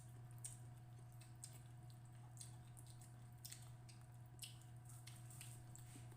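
Faint wet mouth sounds of eating: irregular smacking and chewing, over a steady low hum.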